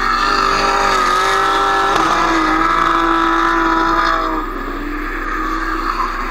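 Drift car engine revving hard at high rpm while sliding through the corner, its pitch dipping and then climbing with the throttle. The engine noise eases off a little after four seconds in.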